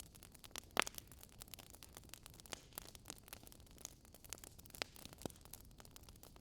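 Crackling wood fire: irregular small pops and snaps over a faint hiss, with one louder pop about a second in.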